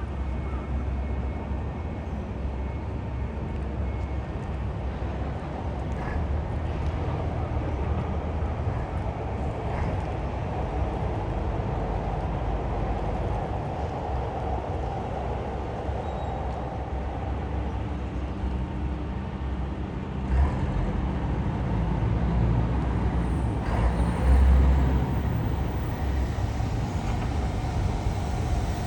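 Steady low rumble of a heavy vehicle or engine, with two louder low bumps about twenty and twenty-four seconds in.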